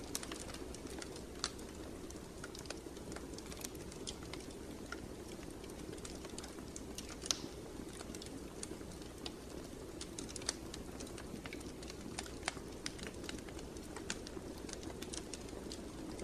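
Wood fire in a fireplace crackling: irregular sharp pops and snaps over a steady low rush, with one louder pop about halfway through.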